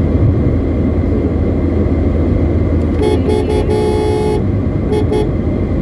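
Steady low car road and engine noise, with a car horn honking about three seconds in: three quick toots, a longer blast, then two more short toots.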